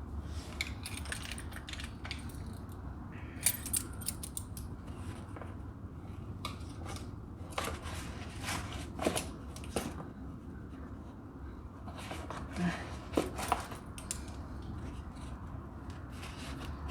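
Scattered light clicks, taps and scrapes of hand work with small metal parts and cardboard, spread irregularly over a steady low hum.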